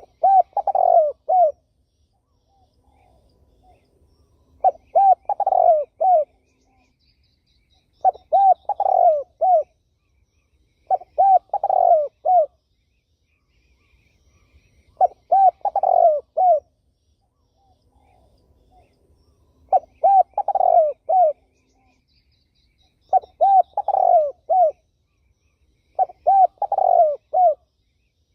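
Spotted dove cooing: a phrase of several short, low coos about a second and a half long, repeated evenly about every three and a half seconds, eight times.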